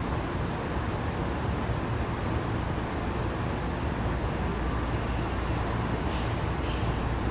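Steady running noise inside a Saitama Railway 2000 series electric train car travelling through a subway tunnel, a constant low rumble of wheels and motors. Two brief, faint high hisses come near the end.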